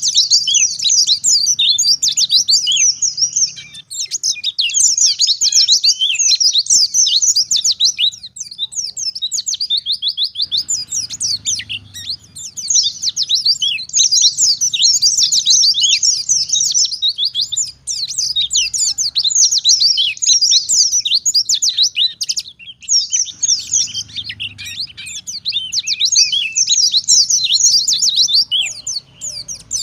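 Wild-caught white-eye (pleci) singing a fast, high twittering song in long phrases of rapid chirps, broken by short pauses every few seconds.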